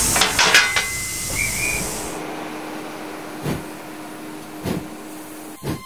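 Steam locomotive venting steam, a loud hiss that dies away about two seconds in. After it a quieter steady hum remains, broken by three single knocks.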